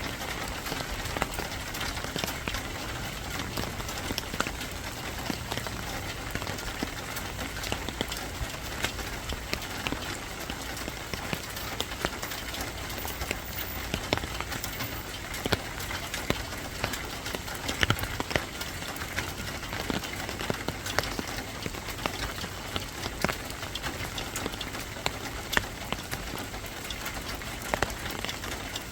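Steady rain, an even hiss with many individual drops ticking sharply on a hard surface.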